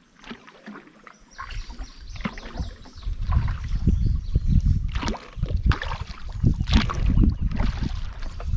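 Canoe paddling on a river: paddle strokes splashing in the water, several times, over a heavy low rumble that sets in about a second and a half in.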